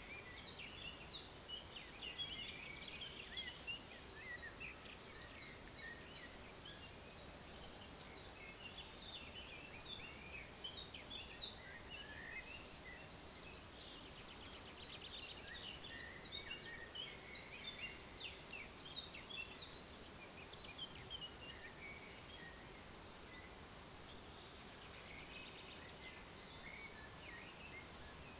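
Faint outdoor ambience: small songbirds chirping and twittering in short, high, scattered calls over a steady low hiss.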